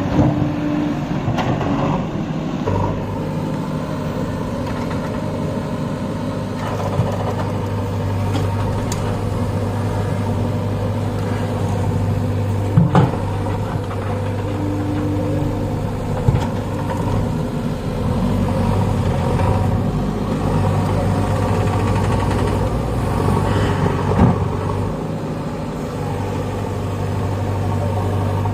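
JCB backhoe loader's diesel engine running steadily, with a few short sharp knocks, the loudest about halfway through.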